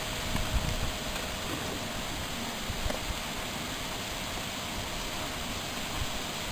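Steady hiss of thunderstorm rain, with a few low gusts of wind buffeting the microphone in the first second or so.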